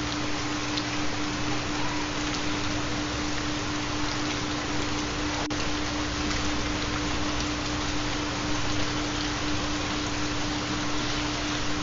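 Steady rain with scattered drop ticks, under a continuous low steady tone: the carrier of a theta binaural beat.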